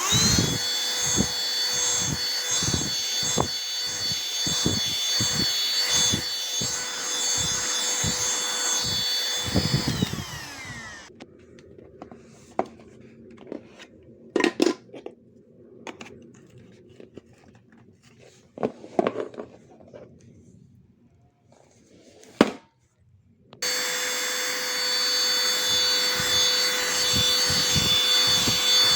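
Cordless handheld vacuum cleaner motor switched on and running with a steady high whine for about ten seconds, with irregular low knocks beneath it, then winding down in falling pitch. Scattered clicks and knocks follow, and the motor starts up again a little over twenty seconds in.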